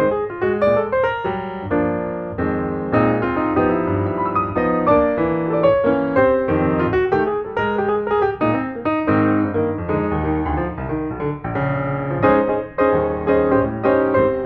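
Background piano music, many notes played briskly in a steady flow.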